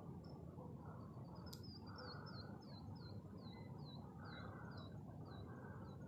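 Faint bird song: a string of short, falling high notes, about two a second, beginning about one and a half seconds in, over low steady background noise. A single sharp click comes just as the song begins.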